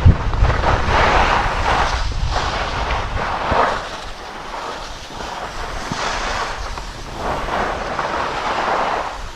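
Wind buffeting the microphone while skiing downhill, with swells of hissing scrape from skis on snow about every second or so, as through a series of turns.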